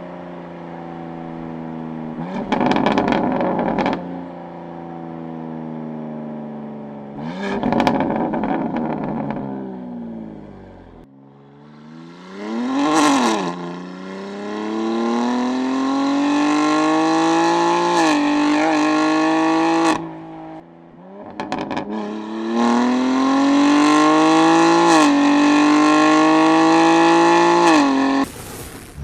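BMW M2 (G87) twin-turbo inline-six through Fabspeed sport cat downpipes and valved exhaust, driven hard: several bursts of acceleration, a quick rev near the middle, then two long rising pulls each broken by a gear change, the last cutting off suddenly near the end.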